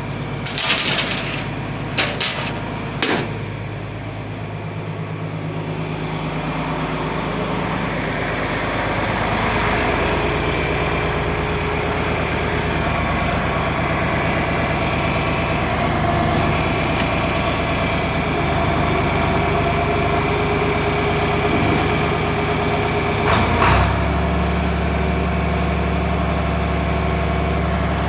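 An engine running steadily at idle, with a few sharp knocks in the first three seconds; about 24 seconds in its note drops and gets stronger, as if its speed or load changed.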